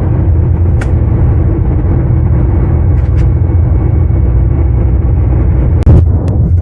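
Steady low road and engine rumble heard from inside a moving car at highway speed, with a few brief clicks over it.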